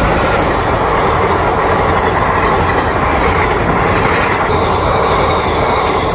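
Train passing at close range: the steady loud rumble and rattle of its wheels running over the rails, easing as the last coach clears near the end.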